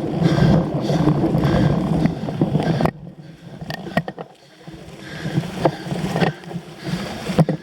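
Rushing wind and riding noise from a cyclocross bike being raced over rough ground, loud for about three seconds and then dropping away. Scattered sharp clicks and knocks from the bike's rattling parts follow.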